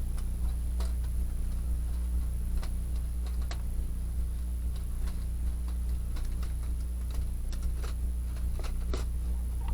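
Wood fire crackling in a small fire pit: irregular sharp pops and ticks, a few every second, over a steady low hum.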